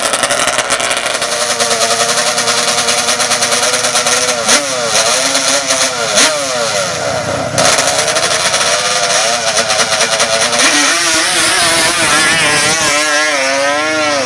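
Racing ATV engine revving hard, its pitch rising and falling repeatedly as the throttle is worked.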